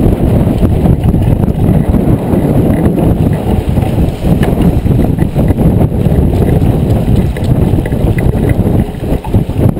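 Loud wind buffeting the microphone while sailing: a dense, rumbling low roar.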